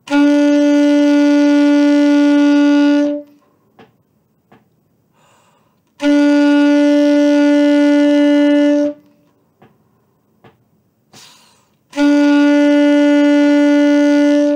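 Saxophone playing three long, steady tones on one note, 'mi' (first finger only), each about three seconds long with a pause of about three seconds between them: a four-counts-on, four-counts-off long-tone exercise. The third tone is still sounding at the end.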